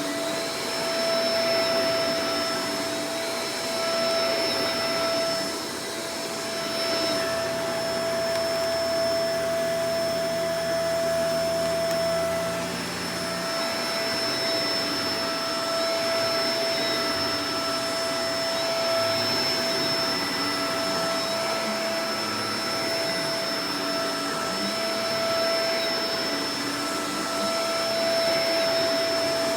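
Shark Professional Powered Lift-Away DLX (NV586) upright vacuum cleaner running continuously: a steady motor and airflow rush with a high, even whine, its loudness dipping slightly now and then.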